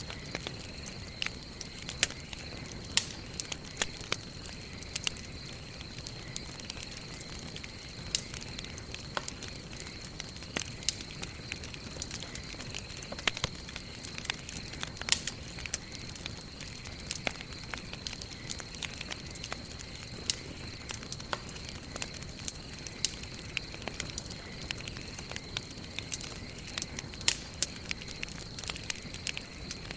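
Wood campfire burning, crackling with frequent irregular sharp pops and snaps over a low steady hiss.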